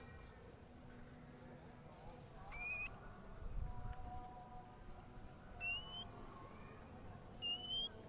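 Oriental magpie-robin giving three short rising whistles, spaced about three seconds apart, over a steady thin high-pitched whine. There is a low dull rumble about midway.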